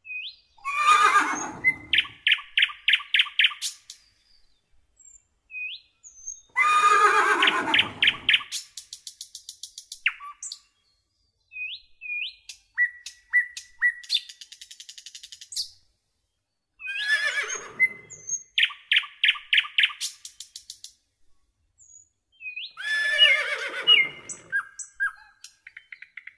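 Horses whinnying four times, each a long falling call, with birds chirping and trilling in the gaps between.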